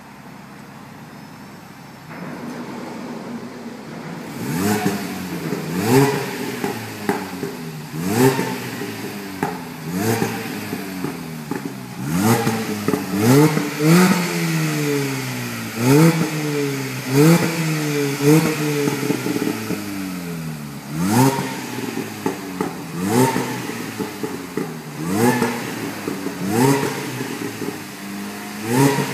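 A car's engine and exhaust idling for a few seconds, then being revved hard again and again. The revs sweep up and fall back about every one to two seconds, with sharp pops and cracks from the exhaust on many of the blips.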